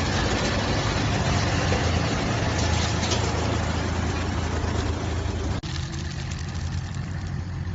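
55 kW wood chipper running under load: a steady low hum with a rough, noisy clatter over it. A little past halfway the clatter cuts off suddenly and the machine runs on more quietly.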